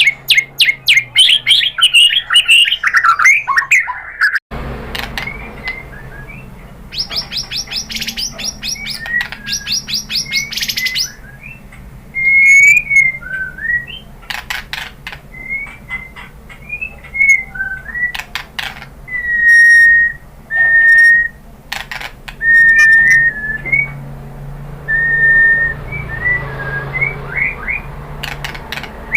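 White-rumped shama singing a varied song of fast chattering trills and clear whistled notes. The recording changes abruptly a few seconds in, after which a low steady hum lies under the song.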